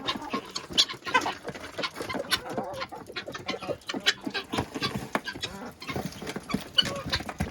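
Backyard chickens clucking and calling, many short calls overlapping.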